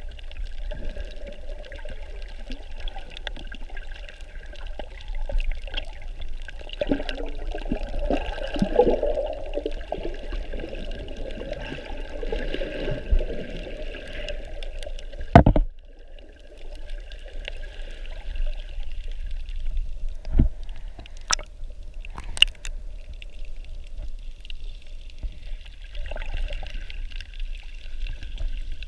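Water sloshing and gurgling around a camera during snorkeling, with a few sharp knocks in the second half, the loudest just past the middle.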